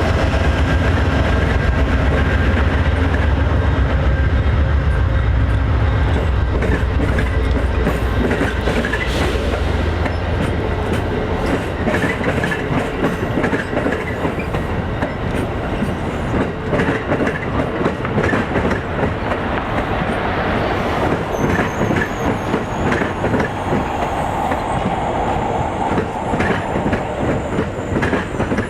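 Amtrak passenger train passing at low speed as it approaches a station stop. The locomotive's heavy engine rumble fills the first ten seconds, then the passenger cars roll by with a steady clatter of wheel clicks over the rail joints. Thin, high squeals set in during the last third.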